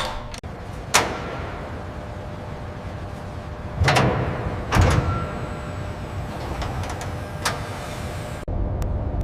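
Sharp knocks and bangs, a handful of them irregularly spaced, the loudest a pair about four and five seconds in, over a steady hum. About eight and a half seconds in the hum cuts off and a different steady rumble takes over.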